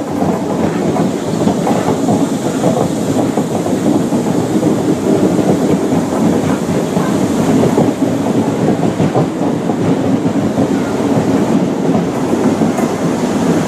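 High Speed Train (InterCity 125) with Class 43 power cars moving along the platform: a loud, steady rumble of wheels on rail, with many small clicks and knocks running through it.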